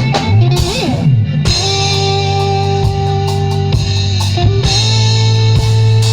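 Live band jamming: guitar over a drum kit, with long held notes and low notes sliding in pitch.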